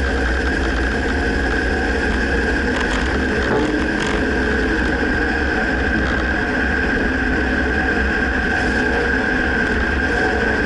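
Dodge Ram pickup running, a steady engine and road rumble with a few faint knocks about three to four seconds in: the front-end clunk that the owner cannot pinpoint.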